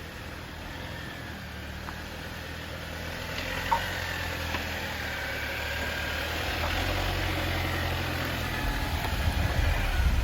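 Jeep Wrangler engine running at trail-crawling speed, growing louder over the second half, with a sharp knock a little after three seconds in.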